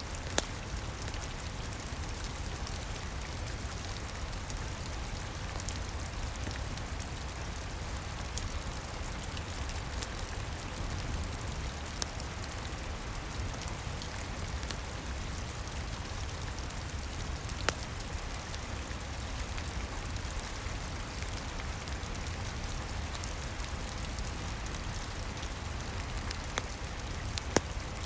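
Steady rain falling, with a low rumble underneath and a few sharp pops from a crackling wood fire.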